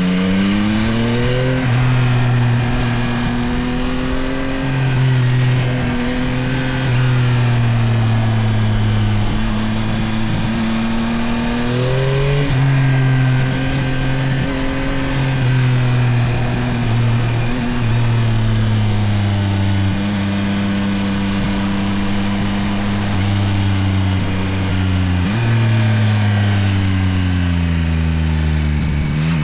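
Yamaha Tracer 9 GT+'s 890 cc CP3 inline-three engine pulling under way. The revs climb steeply and then drop back, twice in the first half. The engine eases off for a long stretch near the end and picks up again at the close.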